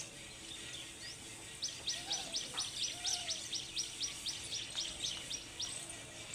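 A bird calling in a fast run of short, high, downward-slurred notes, about four or five a second, starting about a second and a half in and stopping near the end.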